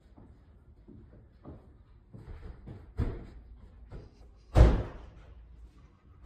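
A door slamming shut once about four and a half seconds in, after a run of quieter knocks and thuds.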